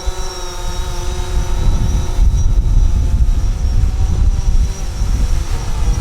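DJI Phantom 4 quadcopter's propellers whining as a steady stack of pitches, with gusty wind buffeting the microphone, the rumble growing stronger about two seconds in.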